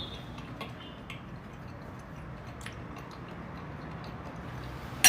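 Quiet eating at the table: faint scattered ticks and taps of a utensil and mouth sounds, with one sharp click just before the end.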